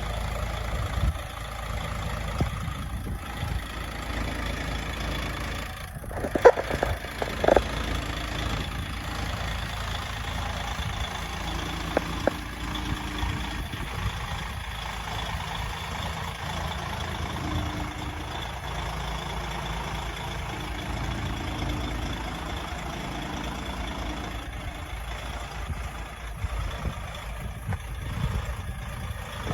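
DAF CF85.460 tractor unit's PACCAR MX 12.9-litre straight-six diesel idling steadily, with a few short knocks about six to eight seconds in.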